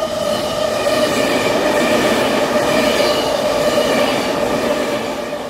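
A train running on rails, with a steady squeal of several held tones over the running noise, fading out near the end.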